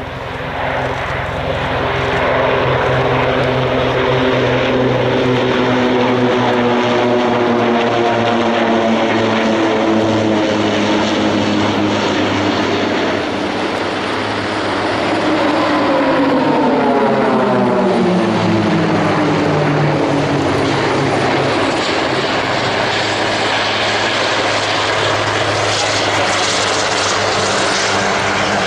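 Pilatus PC-7 turboprop trainers of the PC-7 Team flying by, their engines and propellers droning with a steady pitch. Their pitch falls clearly in the middle as they pass.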